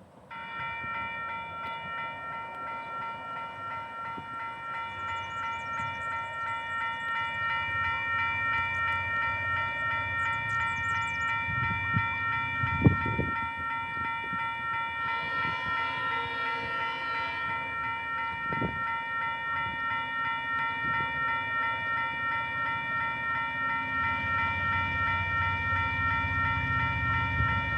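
Level crossing warning bells ringing steadily, with a quick pulsing ring of about two strokes a second. Underneath, the low rumble of an approaching diesel-hauled freight train slowly grows louder, with a few sharp knocks near the middle.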